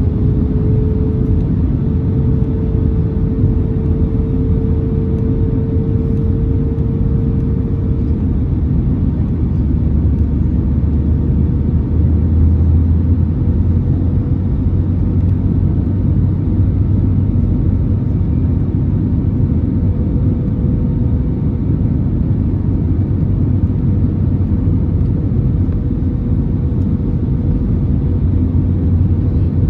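Airbus A320neo cabin noise on final approach: a steady low rumble of the engines and airflow, with a steady humming tone that rises slightly in pitch over the first few seconds.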